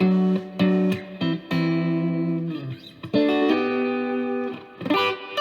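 Electric guitar, an Epiphone Strat-style guitar, played clean through a Boss Katana 50-watt amp's clean channel: quick picked notes and chords, with two longer chords left ringing in the middle.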